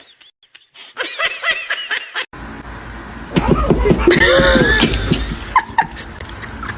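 People laughing in two stretches: a run of short laughs about a second in, then, after a cut, louder laughing over a steady low rumble.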